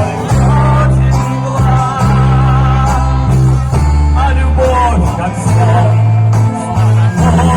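Live vocal-instrumental band playing a pop song, with a strong bass line and a voice singing the melody.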